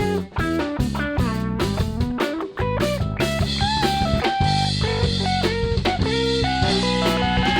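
Instrumental rock break: guitar playing short, choppy chord stabs over drum kit, moving into held melodic guitar notes with cymbals about three seconds in.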